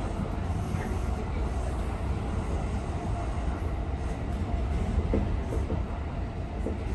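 Tokyo Metro 17000-series electric train running along the platform with a steady rumble of wheels on the rails, and a few short squeaks about five seconds in.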